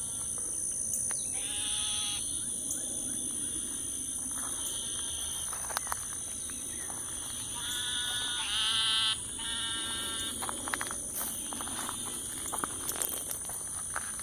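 Frogs calling in an evening chorus: several drawn-out, buzzy pitched calls of about a second each, at different pitches, the loudest around the middle, over a steady high-pitched drone.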